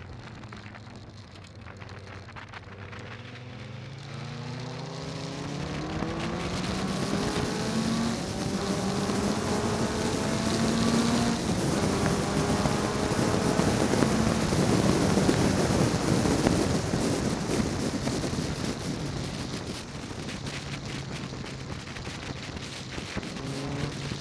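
Westfield ST 227's four-cylinder Ford Zetec engine accelerating hard down the straight, its revs climbing with a gear change about a third of the way in and another near halfway. Wind rushing over the open cockpit is loudest past the middle, and the engine eases off near the end.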